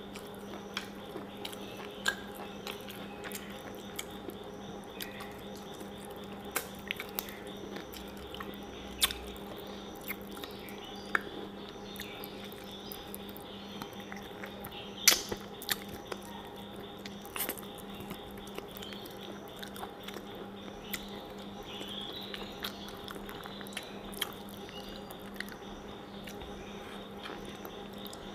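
Close-up mouth sounds of eating by hand: scattered wet clicks and smacks of chewing and finger-licking, over a steady low electrical hum.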